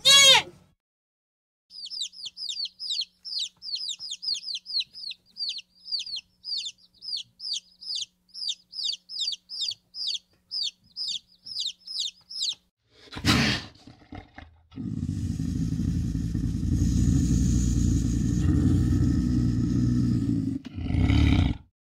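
Young chickens peeping: a long run of high, short peeps that slide downward, about two to three a second. One loud downward-sliding call comes at the very start, and a loud, low, steady sound takes over for the last third.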